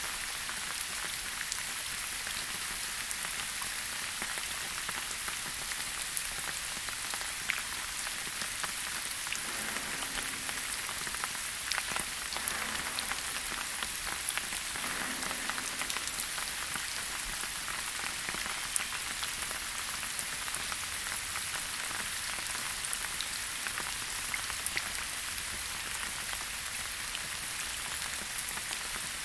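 Steady rain falling in a forest, a continuous hiss with the fine patter of many individual drops striking leaves and surfaces.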